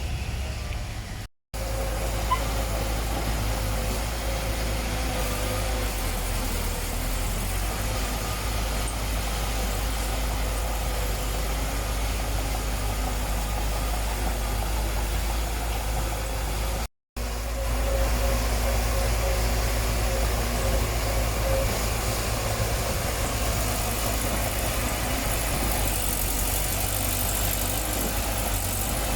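Heavy construction machine's diesel engine running steadily at a low, even speed. It is broken twice by a brief, sudden silence, about a second and a half in and again about halfway through.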